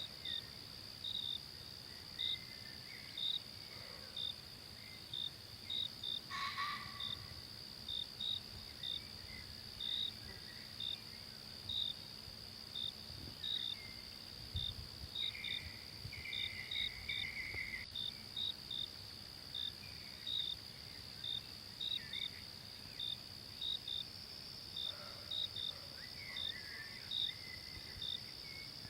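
Insects in a forest: a steady high-pitched drone with short chirps repeating about once or twice a second, often in pairs. Faint wavering calls come and go, over a soft low background hiss.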